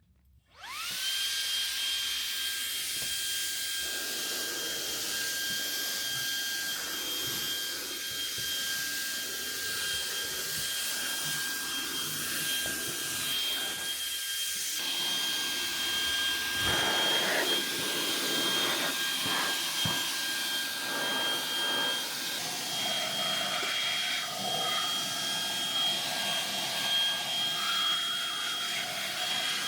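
Shark WV201 WandVac handheld vacuum switched on: its motor spins up within the first second to a steady high whine over the rush of air. It runs on while sucking up loose hair clippings from the floor, and the airflow sound shifts about in the second half as the nozzle moves.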